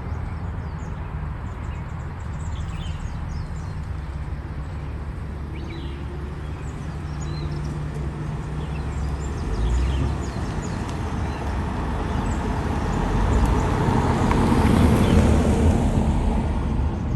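Outdoor ambience: a steady low rumble that swells louder about three-quarters of the way in, with short high bird chirps scattered over it.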